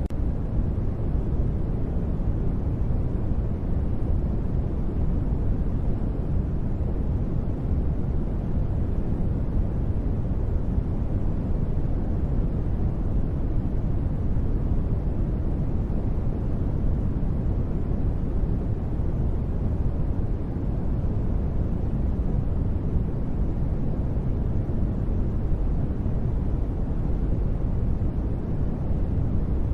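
Steady, unchanging synthetic sleep noise: a deep, even rumble with most of its energy low and only faint hiss above.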